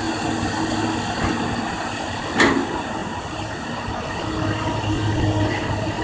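Kobelco excavator's diesel engine running steadily, with a single sharp knock about two and a half seconds in.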